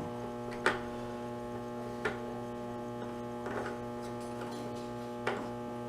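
Steady electrical mains hum, with four short light clicks or knocks spread through it.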